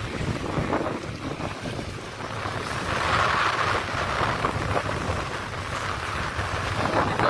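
Wind buffeting the microphone over the steady rumble of a boat on rough water.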